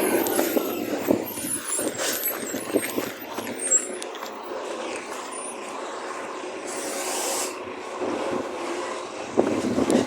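Road vehicle running, with a short hiss of air about seven seconds in.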